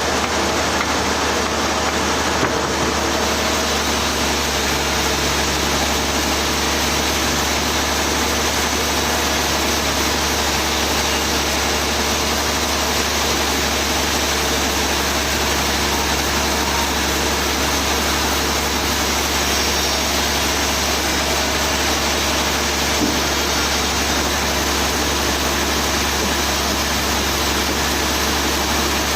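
Sawmill machinery running steadily: a constant engine-like drone with a low hum underneath, unchanging throughout.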